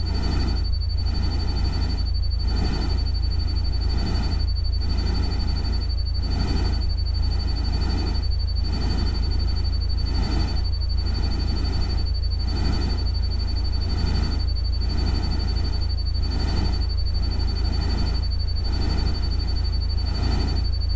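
A steady ambient noise bed: a deep constant rumble under a noise that swells and fades evenly a little over once a second, with a constant thin high tone above.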